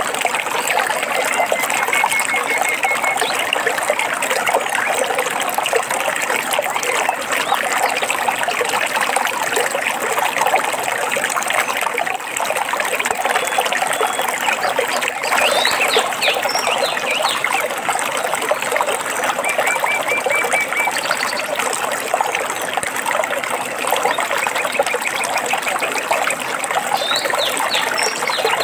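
Water trickling and babbling steadily in a small forest stream. A few brief bird calls ride over it: a short trill of quick repeated notes about two seconds in and again around twenty seconds, and scattered chirps around the middle and near the end.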